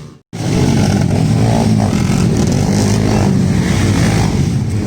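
Several motocross bikes racing, engines revving up and down as they ride the track. The sound cuts in abruptly just after the start and fades near the end.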